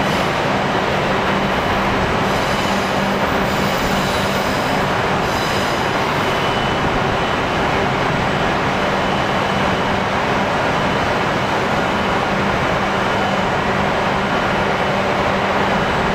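A train running, a steady rumble and hiss with a low hum throughout. A faint high squeal comes in about two seconds in and fades out after about six seconds.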